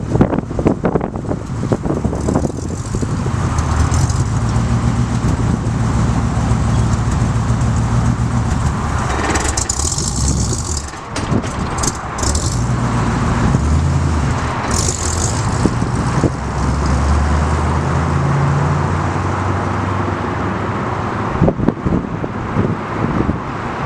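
A 1976 Ford Bronco's 302 V8 running on the move, its note rising and falling several times, with a brief drop about eleven seconds in. Wind rush and light rattles run under it, with two short hisses partway through.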